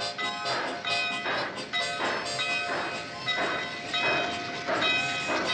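Steam locomotive chugging, its exhaust puffs coming in an even rhythm of about two a second.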